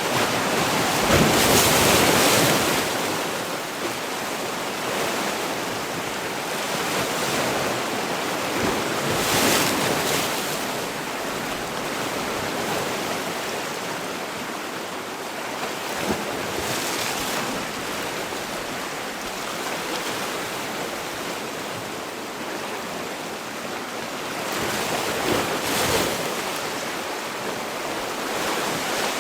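Sea waves breaking on the shore: a continuous wash of surf, with louder breakers swelling about a second in, around ten seconds in, and again near the end.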